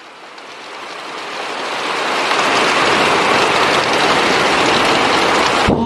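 Heavy rain pouring down, swelling over the first couple of seconds to a steady loud hiss, then cutting off abruptly just before the end.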